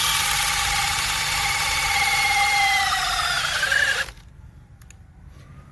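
Makita XPH07 brushless hammer drill on high speed boring a 1-inch spade bit into wood: a steady high motor whine that sags in pitch as the bit loads up, then cuts off suddenly about four seconds in.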